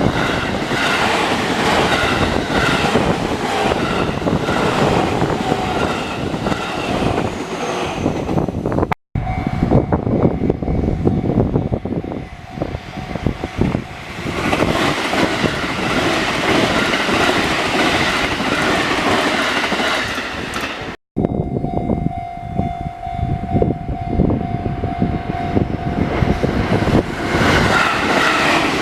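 Trains running past a railway level crossing, wheels clattering over the rail joints with a steady rumble. The sound cuts out abruptly twice, and after each cut a steady tone sounds for a few seconds.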